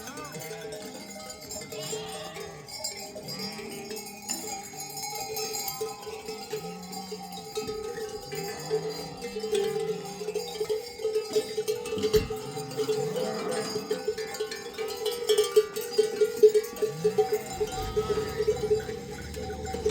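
Livestock bells on a herd jangling continuously, busier and louder after the middle, with short low bleats now and then.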